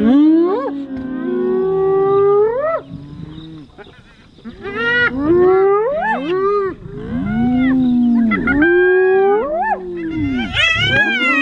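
Several animals calling over one another in drawn-out, pitched calls that rise and fall, with a short lull about four seconds in.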